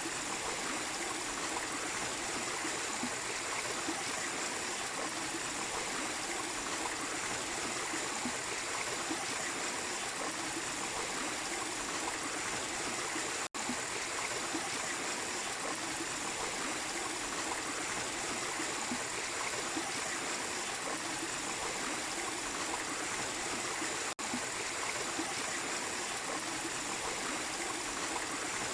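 Small waterfall and stream splashing steadily over rocks, a constant rush of water. The sound cuts out for an instant twice, about halfway through and near the end.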